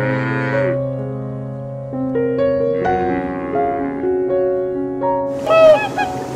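Gentle piano music throughout, with two brief animal calls over it in the first half and a run of loud honking calls near the end.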